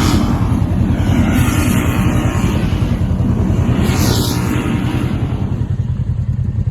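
Engine of an off-road vehicle running steadily at speed with a fast low pulse, slowly fading, with a brief hiss about four seconds in.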